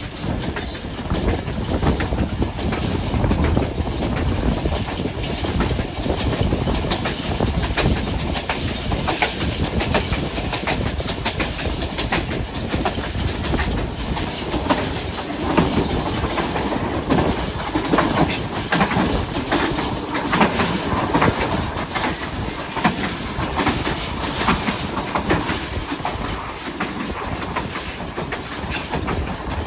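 Hazara Express passenger train running along the track: a steady rumble with the wheels clattering over the rail joints.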